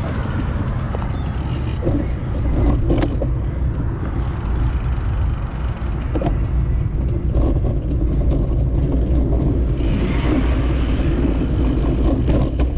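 Road traffic and a steady low rumble heard from a moving bicycle, with a vehicle passing close by about ten seconds in.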